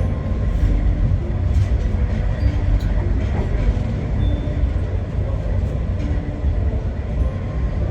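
A passenger train running along the track, heard from on board: a steady, loud low rumble of the carriage wheels and running gear.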